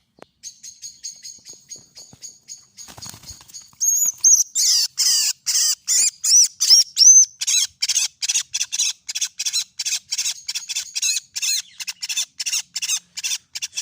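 A bird trapped in garden netting giving rapid, repeated distress calls, high-pitched squawks at about four a second. The calls grow much louder about four seconds in.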